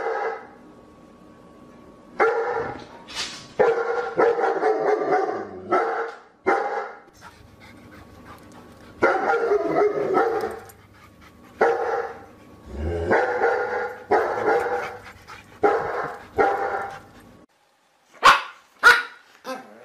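A dog barking repeatedly in bouts of a second or so, with short pauses between. Near the end, after a brief silence, come a few short, sharp barks.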